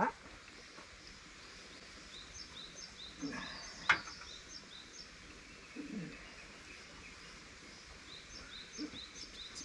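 A small bird chirping in the background, with short high notes repeated about twice a second over a steady low ambient hiss. There is a sharp click about four seconds in.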